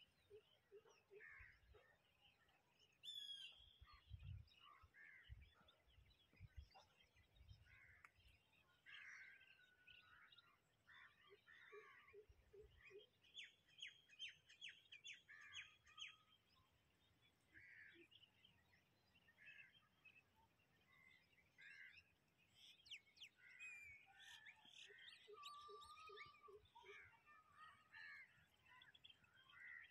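Faint chirps and calls of several wild birds, coming and going throughout, with a few low thumps in the first several seconds.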